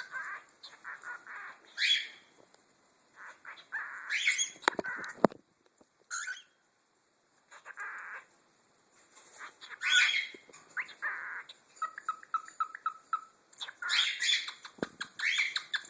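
Cockatiels chirping and calling in short, scattered bursts, with a quiet gap partway through and a quick run of short repeated chirps a little past the middle.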